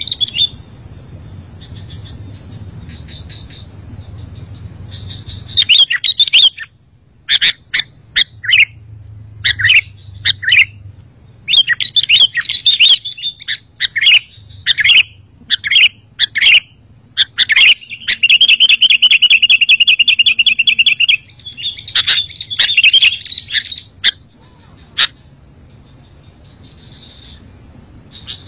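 Sooty-headed bulbul (kutilang) calling: after a faint start, loud short chirps and whistled notes begin about six seconds in, with a rapid trill lasting about three seconds past the midpoint.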